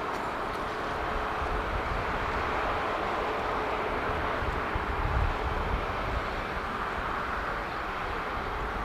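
Jet airliner engines running, heard as a steady rushing noise with a low rumble underneath.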